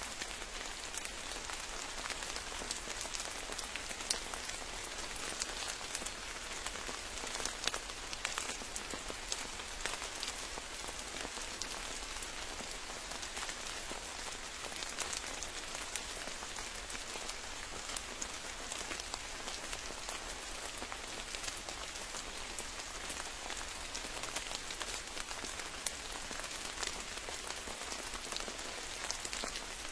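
Steady rain falling in a forest, a continuous hiss scattered with many short ticks of individual drops close by.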